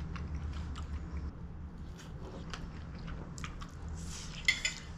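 A person chewing and biting into battered fried cauliflower, with soft crunches and small mouth clicks over a steady low hum. There is a sharper click near the end.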